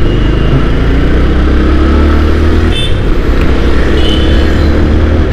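Bajaj Pulsar 150's single-cylinder engine running as the motorcycle accelerates, with wind noise on the helmet-mounted microphone.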